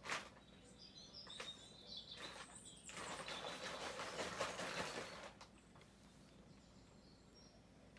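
Birds chirping faintly in the background. There is a sharp click right at the start and a few seconds of hissing noise that swells in the middle and dies away past the halfway point.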